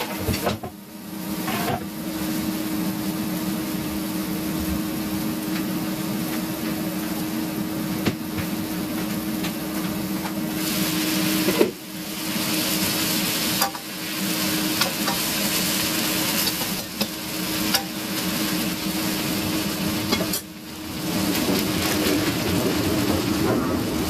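Chicken fajita filling with cheese frying in a pan, sizzling steadily as the cheese melts, with a steady low hum underneath and a few brief dips and small clicks.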